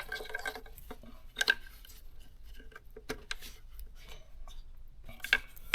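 Light scattered clicks and rustling of plastic and wiring as the throttle body's electrical harness connector is handled and plugged back in.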